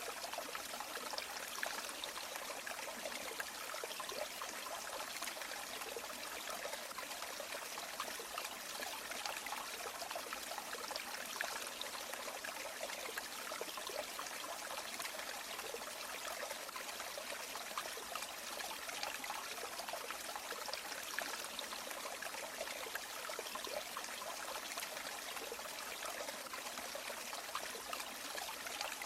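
River water flowing steadily, an even rushing and trickling with small splashes throughout and no change in level.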